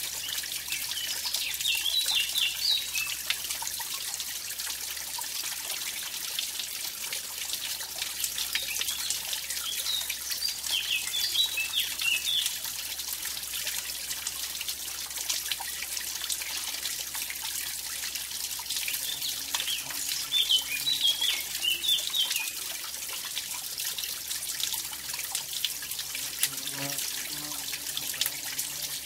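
Mountain stream splashing over a small waterfall, a steady rushing hiss of running water. A small bird sings short twittering phrases over it three or four times, roughly every ten seconds.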